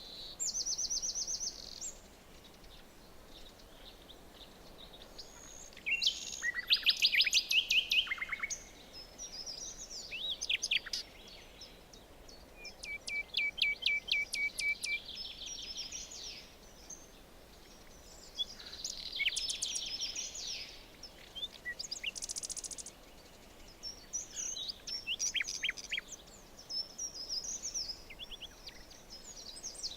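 Several songbirds singing in a forest, phrases of fast trills and chirps coming every few seconds, with a faint steady hiss of ambient noise between them.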